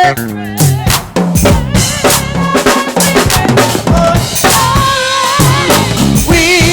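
Live gospel band playing, with the drum kit out front: rapid kick, snare and rimshot strokes over bass and other pitched instruments.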